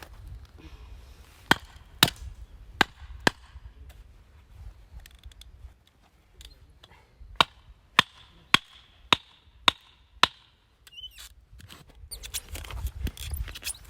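A hand tool striking in two runs of sharp blows: four in the first few seconds, then six at an even pace of about two a second, several with a short ringing tail.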